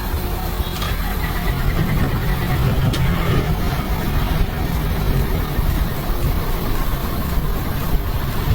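HD1000 truck's diesel engine running at a steady idle, a continuous low rumble.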